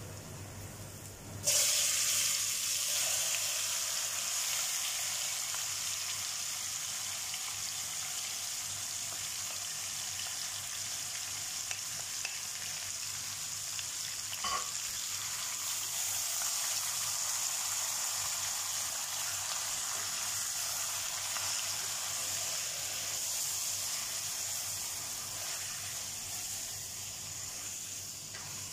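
Marinated chicken pieces hitting hot oil: sizzling starts suddenly about a second and a half in, then the chicken fries steadily with an even hiss that eases slightly near the end. There is one brief clink about halfway through.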